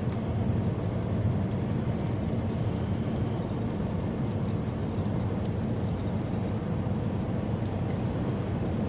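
Steady rumble of road and engine noise inside a semi-truck's cab cruising at highway speed, with a faint thin high tone that rises a little near the end.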